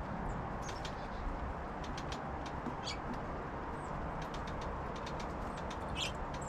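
Small songbirds at a backyard feeder giving short, high chirps and a couple of buzzier calls, mixed with many sharp clicks and ticks, over a steady low background hum.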